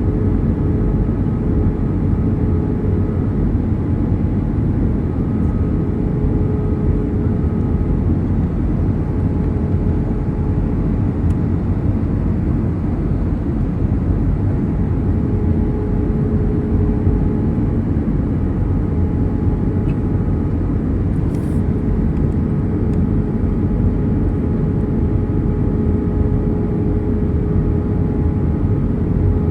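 Steady pink noise, an even hiss heaviest in the low end, with a few faint steady hum tones underneath.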